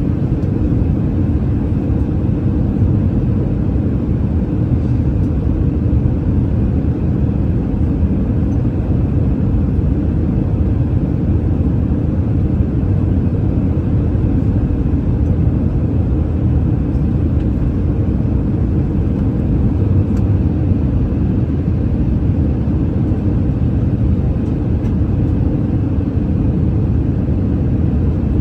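Steady, unchanging rumble of an Airbus A319 in flight, engine and airflow noise heard from inside the passenger cabin during the descent.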